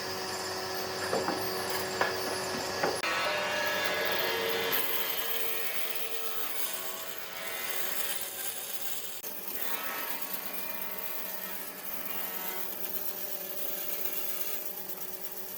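Woodworking power tool working wood, a steady rasping machine sound, with a few sharp knocks in the first three seconds.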